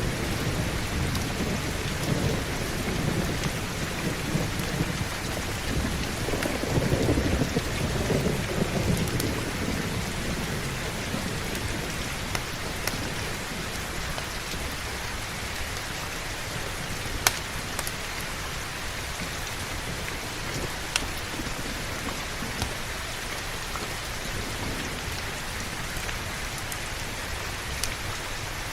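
Heavy, steady rain hissing, with a low rumble of thunder through the first several seconds that swells and then fades away. A few single sharp clicks come later.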